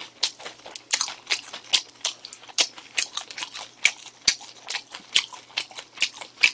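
A person chewing and biting into fried chicken close to the microphone: an irregular run of short crunching clicks, about three to four a second.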